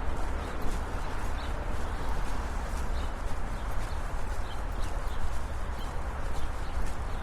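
Brisk footsteps on a city sidewalk, about two steps a second, over a steady low rumble of road traffic.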